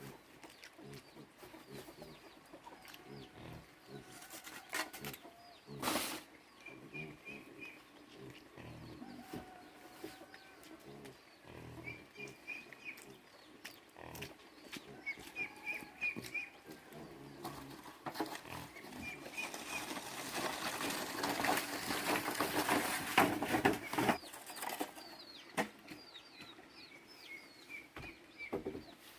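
Farmyard sounds: short bird chirps repeat every few seconds over scattered knocks, with one sharp knock about six seconds in. A louder stretch of scratchy noise lasts about five seconds in the second half.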